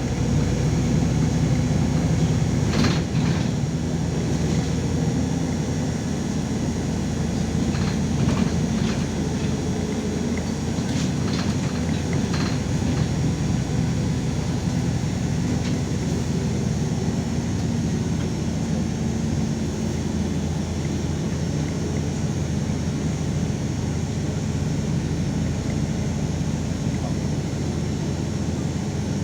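LiAZ 5292.22 city bus heard from inside the cabin while driving: steady engine and drivetrain noise, with a few light rattles or knocks from the body about three, eight and twelve seconds in.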